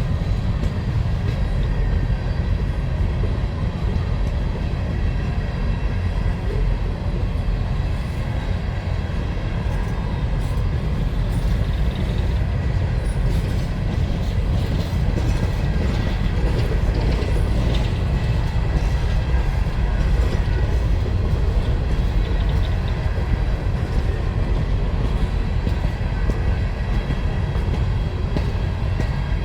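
Freight train of empty mine cars rolling past, a steady heavy rumble of wheels on rail with some clickety-clack and faint high wheel squeal.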